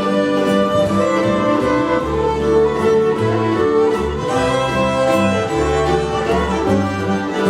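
A string band playing live: fiddle carrying the tune over guitar and a plucked upright-bass line.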